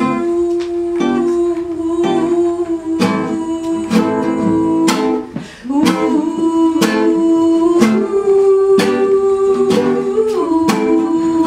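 Live acoustic band playing an instrumental passage of a song: strummed acoustic guitar with regular strokes about once a second under a long, held melody line.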